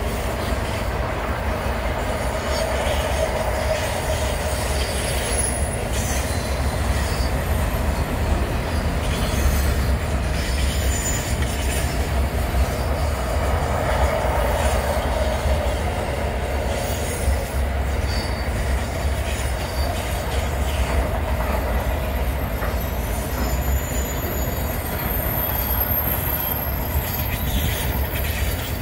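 Aurizon freight train passing: a steady rumble of wagons rolling over the rails, with a thin high wheel squeal in the last few seconds.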